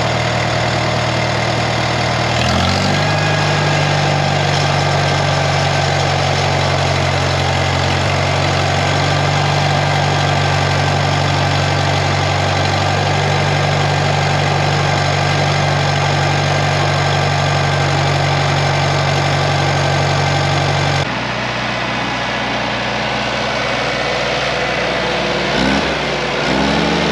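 International Harvester 424 tractor engine running, just brought to life on a freshly charged battery. About two and a half seconds in it speeds up and then holds a steady, higher speed; near twenty-one seconds the sound changes abruptly to a quieter, lower engine hum.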